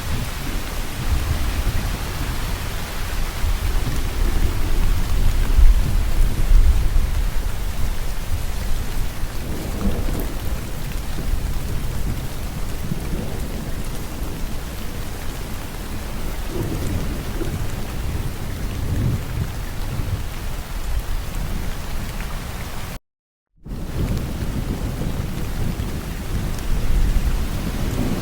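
Steady, heavy rain with repeated low, rolling thunder rumbles that swell and fade. About 23 seconds in, the sound drops out completely for about half a second, then resumes.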